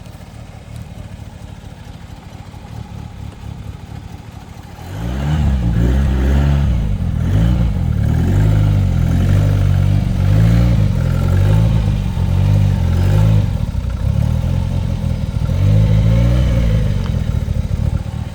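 A vehicle engine close by, running low at first. About five seconds in it revs up and then rises and falls in pitch over and over, until it drops away near the end.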